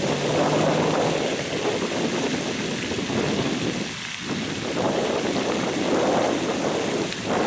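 Wind buffeting the microphone in uneven gusts that swell and ease every second or two.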